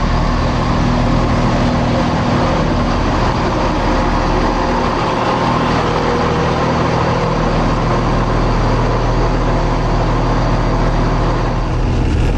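Diesel train engine running steadily: a constant low engine hum with even tones and no change in pace.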